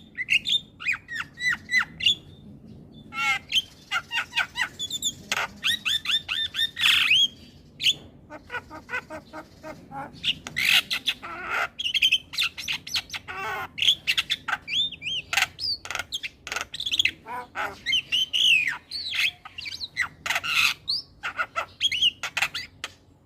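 Javan myna (jalak kebo) singing: a fast, unbroken medley of short whistles, rising and falling notes and harsh squawking calls, with a couple of brief pauses.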